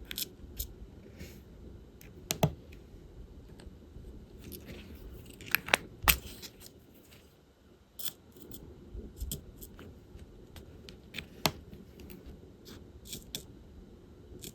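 Irregular small clicks and taps from diamond-painting work: the drill pen picking up and pressing resin drills onto the canvas, with drills and plastic tray or case rattling. A few sharper clicks stand out, about two and a half, six and eleven and a half seconds in.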